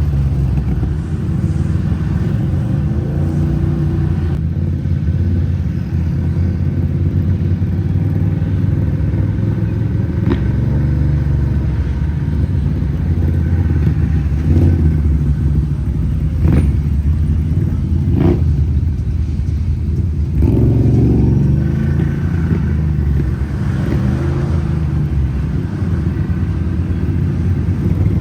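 Off-road vehicle engine running steadily at shifting revs, with a few sharp knocks around the middle.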